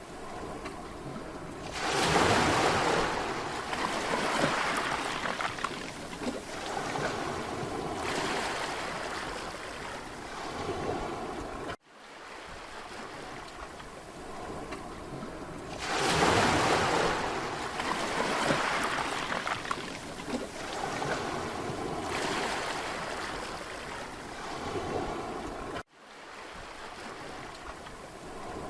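Mediterranean sea waves breaking and washing up a beach, surging loudest about two seconds in and again about halfway, then ebbing between swells. The sound cuts out for an instant twice.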